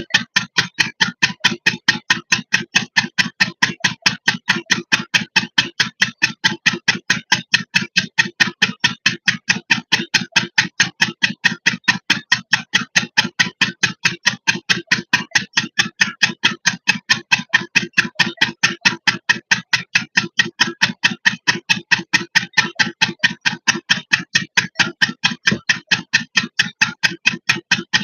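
8 hp single-cylinder diesel engine running a water pump, with a steady, even exhaust beat of about four beats a second.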